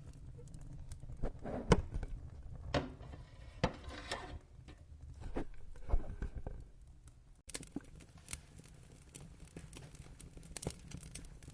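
Wood fire crackling in a fireplace: irregular snaps and pops over a low rumble of burning, with a couple of louder pops in the first half and a sudden change in the crackle's texture about two-thirds of the way through.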